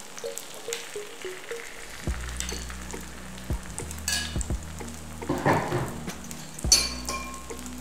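Hoi krok batter and egg mixture sizzling in hot oil in the cups of a cast-iron hoi krok pan, with a few sharp clinks of a metal ladle on the pan.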